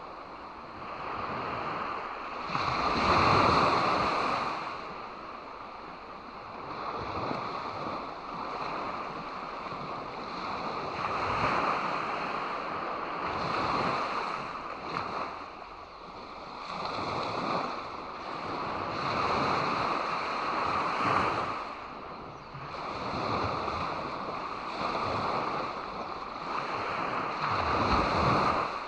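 Sea waves breaking and washing onto the shore, one surge after another every few seconds, the biggest about three seconds in and again near the end.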